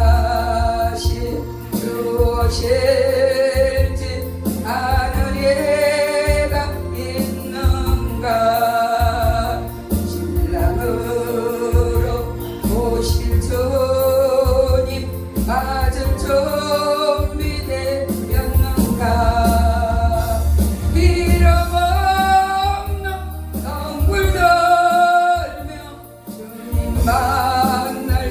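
A gospel song sung over backing music with a strong, steady bass line; the voice sings in phrases of a few seconds each.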